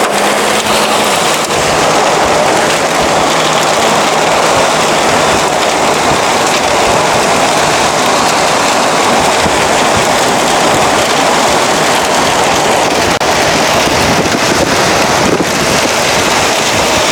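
Steady, loud rush of rain and wind on a moving vehicle, mixed with road noise, heard from inside the car during a severe thunderstorm.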